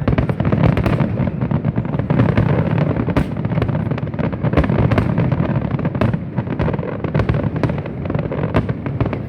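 Fireworks display: a dense run of sharp bangs and crackles over a continuous low rumble.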